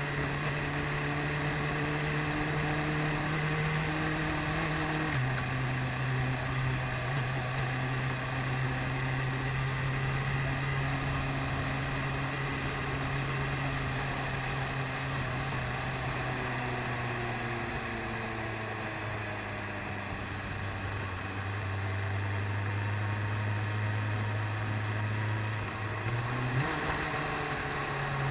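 BMW S1000RR's inline-four engine running at low, steady revs while cruising. Its pitch drops suddenly about five seconds in and eases lower through the second half, then revs up sharply near the end.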